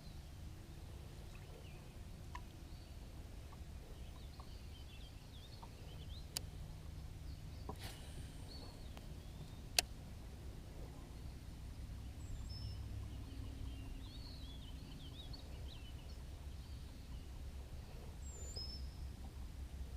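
Birds singing and chirping over a steady low rumble, with a few sharp clicks, the loudest about ten seconds in.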